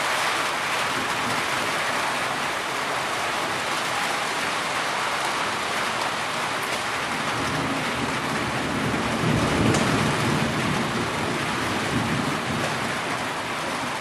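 Heavy rain falling steadily. A low roll of thunder swells about halfway through and fades a few seconds later.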